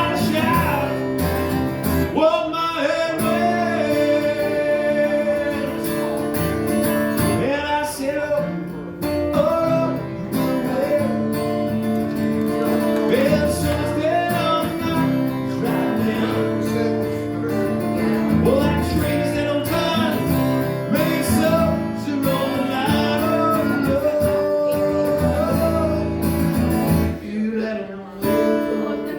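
Live acoustic guitar playing with singing over it. The music dips briefly near the end.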